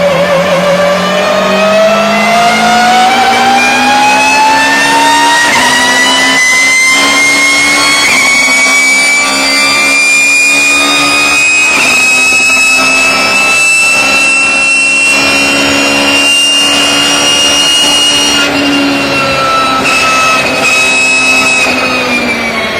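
BMW E36 race car driving under power, its engine and straight-cut gearbox giving off a loud whine. The whine climbs steadily in pitch for most of the time, levels off and then drops away near the end.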